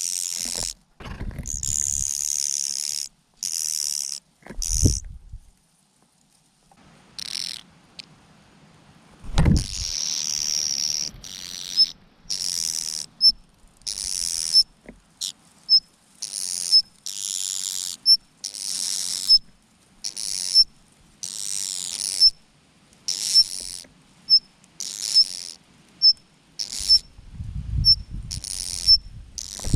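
Mynas giving harsh, hissing begging calls, about one a second, with short high chirps between them while they compete for food. A dull thump comes about nine seconds in.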